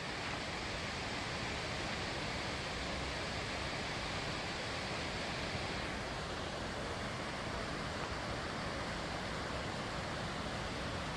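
Steady rushing noise of an outdoor forest setting, even and unbroken, with its upper hiss easing slightly about six seconds in.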